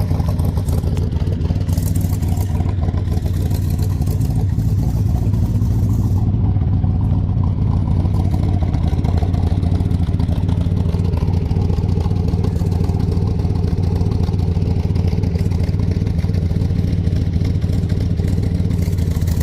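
1967 Chevrolet Corvette's 427 big-block V8 idling steadily.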